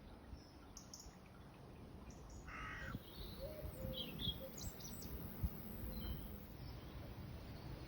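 Faint bird calls: one harsh call about two and a half seconds in, then a few short high chirps, over a low steady rumble.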